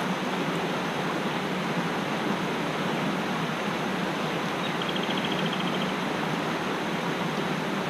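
Mountain stream rushing steadily over rocks. About five seconds in, a small bird gives a brief, faint, rapid trill.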